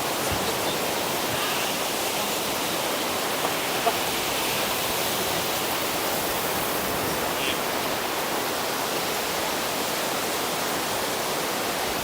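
Steady, even rushing noise of the seashore, unchanging throughout, with no rise and fall of individual waves.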